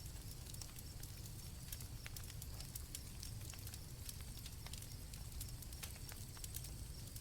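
Campfire crackling and popping in irregular sharp snaps over a low steady rumble, with crickets chirping faintly in a high steady trill.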